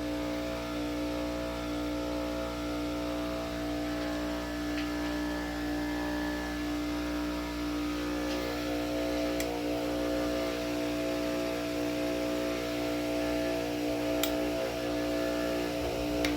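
Small bench grinder running steadily at full speed on its freshly bolted stand: a steady motor hum with a level whine.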